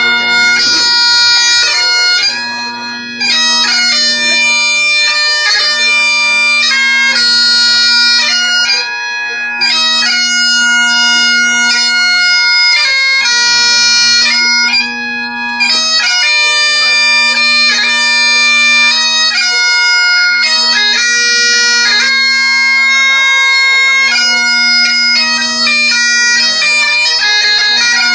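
Two bagpipes playing a tune together: a quick, ornamented melody over a steady drone.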